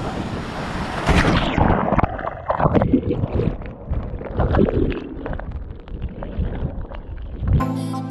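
Wind buffeting the microphone in irregular gusts. Music starts near the end.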